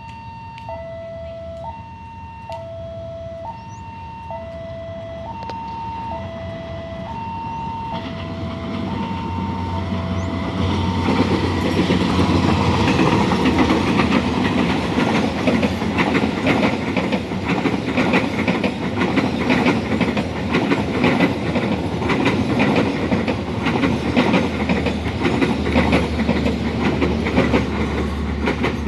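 Level crossing's electronic warning signal alternates between a high and a low tone about once a second, fading out about ten seconds in under the rising noise of an approaching train. A train then passes slowly over the crossing, its wheels clicking steadily over the rail joints.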